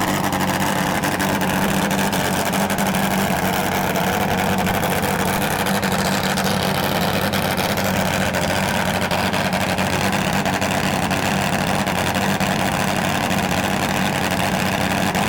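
A drag racing engine idling steadily at an even pitch.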